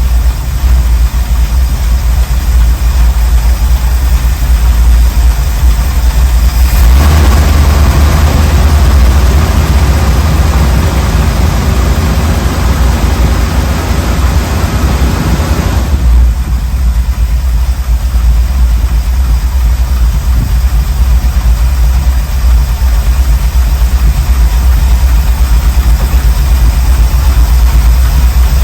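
1979 Ford Bronco's 351M V8 running at idle, brought up to a higher speed about a quarter of the way in and held there for around nine seconds, then dropping straight back to idle.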